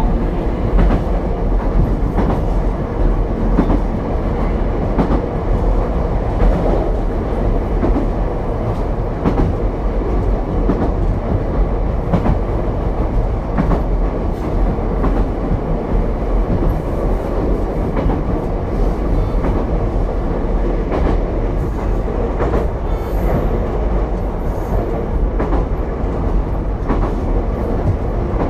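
Ichibata Electric Railway 7000-series railcar 7001 running between stations, heard from inside the car: a steady rumble of wheels on rail with frequent clicks of the wheels passing rail joints.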